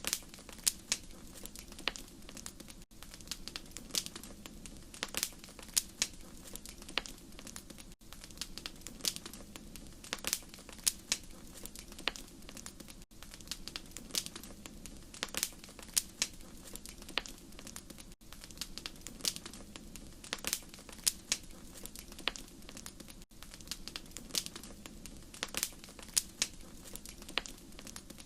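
Wood fire crackling in a fireplace: frequent sharp pops and snaps over a steady low hiss of burning, with brief dropouts about every five seconds.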